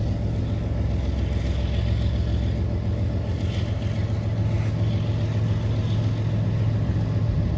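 Union Pacific freight train rolling slowly as it comes to a stop: a steady low rumble.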